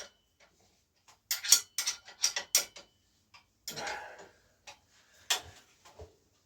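Sharp metallic clicks and knocks of hand tools working on a bicycle's parts: a quick run of about six clicks a little after a second in, a short scrape, then a couple of single clicks.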